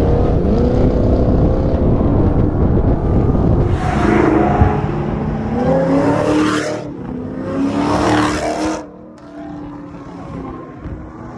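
Car engine running hard at highway speed, its pitch slowly climbing as it accelerates, with three loud rushing bursts of noise in the middle. The sound drops away about nine seconds in.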